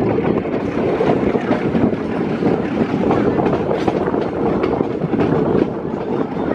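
Metre-gauge passenger train running along the track, heard from the coach doorway: a steady rumble of the coaches' wheels on the rails with faint clicks, and wind buffeting the microphone.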